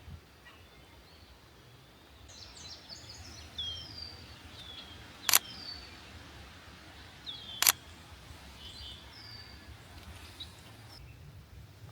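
Wild birds calling with short, high, down-slurred chirps, and a camera shutter clicking twice, a couple of seconds apart and louder than the birds.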